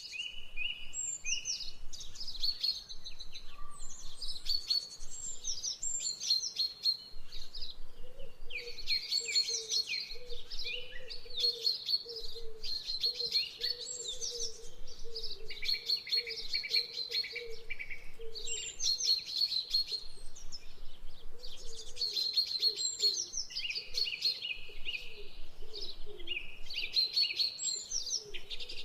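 Songbirds singing and chirping in repeated, overlapping high phrases, with a fainter low wavering call underneath for much of the time.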